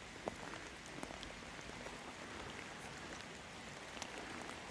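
Light rain falling, a faint even hiss with a few sharp drip ticks scattered through it.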